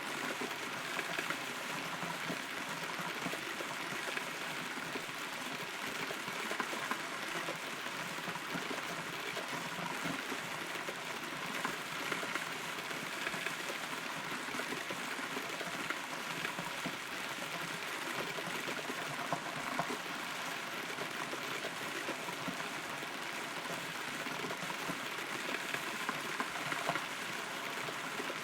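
Steady rain heard from inside a hollow rotten tree: a constant patter of many small drops, with the odd louder drip standing out.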